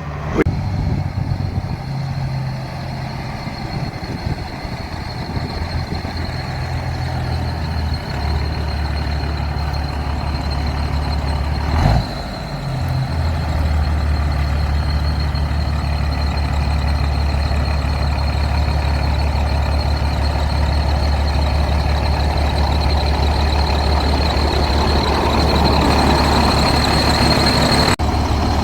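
Peterbilt semi truck's diesel engine running as the truck drives down the road, a low steady drone with a thin high-pitched whine over it. A sharp knock comes about twelve seconds in, after which the engine note is louder and steadier.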